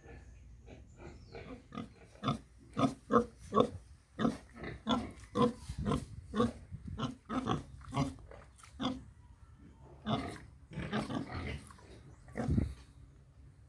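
Pigs in a farm pen grunting and squealing in many short calls, thickest in the first two-thirds, with a loud squeal near the end.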